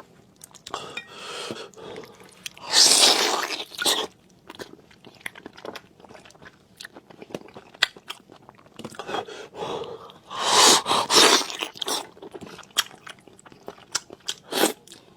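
Close-up chewing and biting of chewy, sticky food, with wet mouth clicks throughout and two louder, longer noisy stretches about three and ten seconds in.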